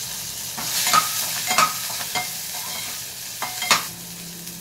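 Chopped onions and green chillies sizzling in hot oil in a metal pot, stirred with a slotted metal spatula that scrapes and clinks against the pot several times, loudest about a second in and again near the end.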